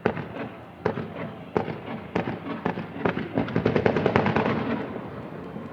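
Fireworks exploding: a few separate bangs in the first two seconds, then a rapid string of many bursts that peaks and dies away near the end.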